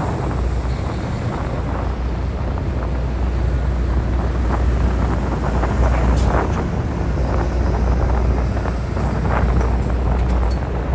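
Steady low engine rumble of heavy vehicles unloading from a car ferry, with wind buffeting the microphone and a few scattered knocks.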